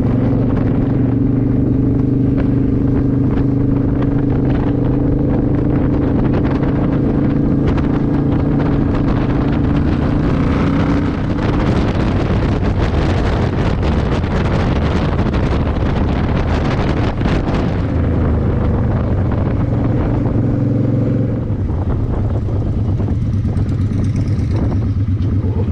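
Motorcycle engine running steadily at road speed, with wind rushing past the microphone and a stretch of heavier wind noise in the middle. Near the end the engine note drops to a lower, pulsing throb as the bike slows.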